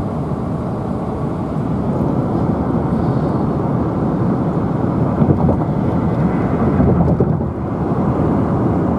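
Steady low rumble of road and engine noise inside a car's cabin while driving at speed.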